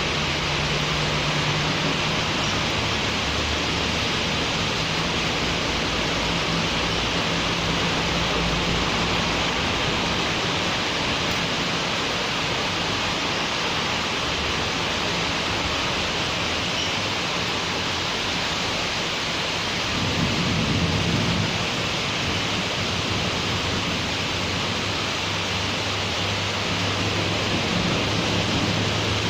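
Steady rain falling in a city street, an even hiss, with the low hum of passing traffic underneath. A vehicle swells a little louder about two-thirds of the way through.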